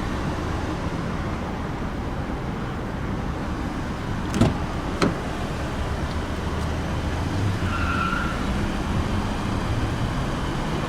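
Two sharp clicks about half a second apart, typical of a car door handle being pulled and the latch releasing as the door opens. A short electronic beep follows a few seconds later. A steady hum of idling vehicle and traffic noise runs underneath.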